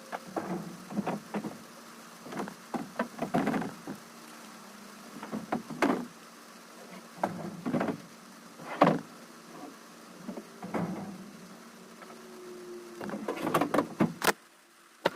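Bulky furniture being unloaded from a truck: irregular knocks, bangs and scrapes as pieces are dragged and dropped, with a brief scraping slide near the end.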